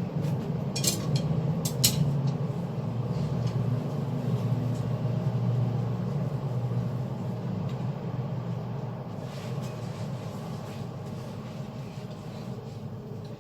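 A steady low mechanical hum that slowly fades, with a couple of sharp clicks in the first two seconds.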